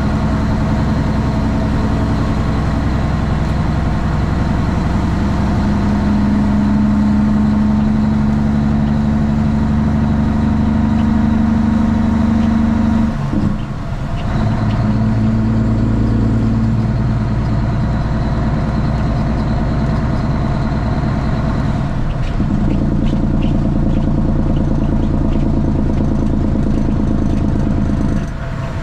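Straight-piped Cummins ISX inline-six diesel in a Kenworth T800 truck running loud under load, heard from the cab. It dips briefly about thirteen seconds in, again about twenty-two seconds in and once more near the end, each time resettling at a new pitch, as at gear changes.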